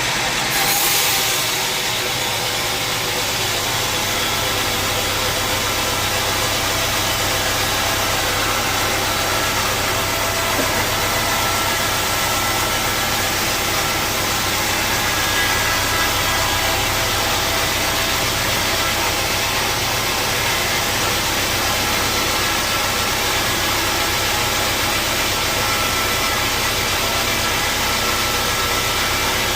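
Sawmill machinery running steadily: a constant low hum under a wide hiss of noise, with a brief louder burst about a second in.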